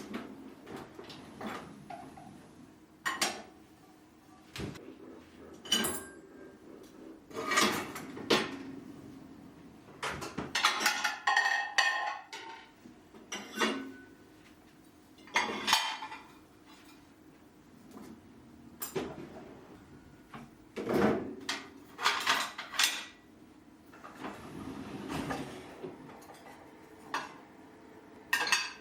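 Dishes and cutlery being handled: scattered clinks and clatters of tableware being picked up and set down, some in quick clusters.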